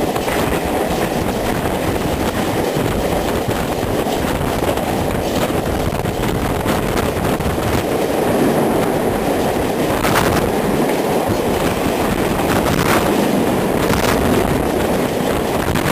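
Passenger train coaches running at speed through a rail tunnel: a loud, steady rumble of wheels on rail with a few clacks over rail joints. From about eight seconds in, the rush of a suburban EMU passing on the next track is added.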